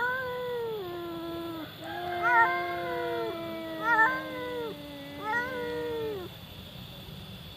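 Two domestic cats caterwauling at each other in a fight stand-off: a low, long-held yowl and a higher one that rises and wavers, overlapping, with louder swells about two and a half, four and five and a half seconds in. The yowling stops about six seconds in.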